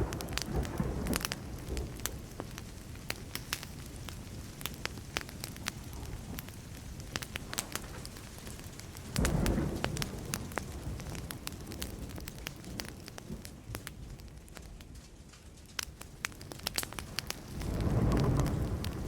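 Burning wood fire crackling and popping throughout, with a low rumble of thunder starting suddenly about halfway through and fading, and another swelling near the end.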